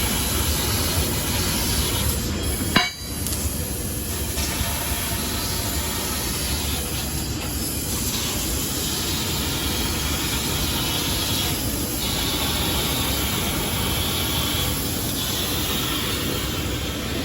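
Large gantry fiber laser cutting machine running, giving a steady rushing machine noise, with one brief sharp click about three seconds in.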